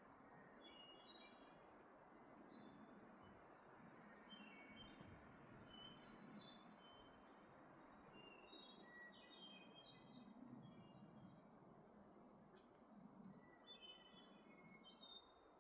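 Wood thrush singing, heard faintly as short phrases a second or two apart, over a steady rush of wind.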